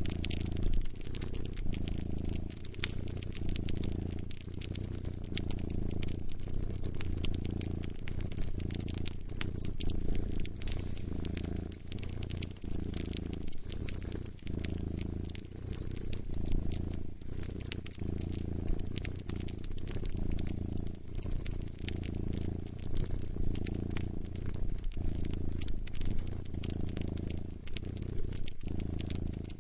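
Cat purring close up, its low purr swelling and easing with each breath every second or two, over a wood fire crackling with many small sharp pops.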